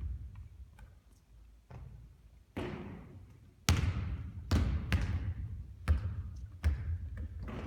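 A basketball bouncing on a court: a run of thuds, each with a short ring after it, that starts about two and a half seconds in and comes every half second to a second.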